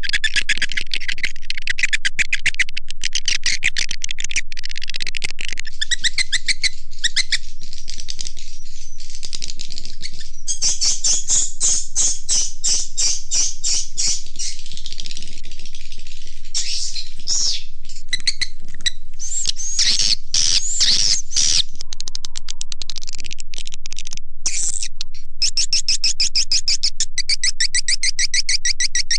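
Swiftlet call recording: a dense, steady stream of fast swiftlet twittering and chirping, the kind of lure call played from swiftlet houses to draw birds in to roost and nest.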